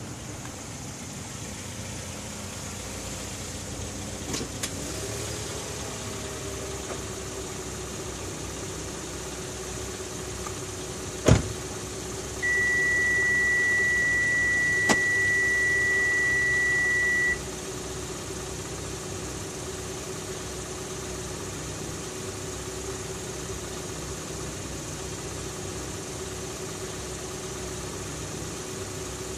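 Kia K5 (Optima) engine starting by remote start about four seconds in, with a couple of clicks and a hum that rises and then settles into a steady idle. A sharp click comes about eleven seconds in, followed by one steady high beep lasting about five seconds.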